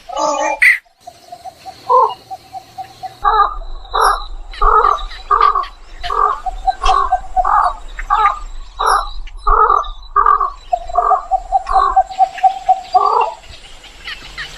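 Egrets calling: a run of short repeated calls, about one and a half a second, with stretches of fast rattling pulses near the start and near the end. The background changes abruptly a few times, as in a spliced recording.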